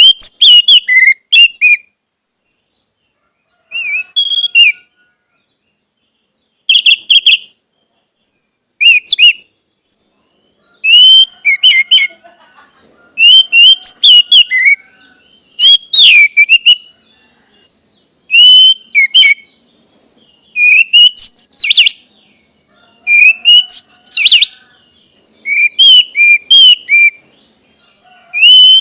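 Orange-headed thrush (anis merah) singing: loud, short whistled phrases of quick sweeping notes, with pauses between them that shorten as the song picks up. About a third of the way in, a steady high-pitched hiss starts underneath and continues.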